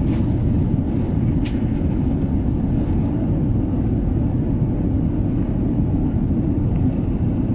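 Steady low cabin drone of an Airbus A380 in flight: engine and airflow noise heard from inside the passenger cabin, with a single faint click about a second and a half in.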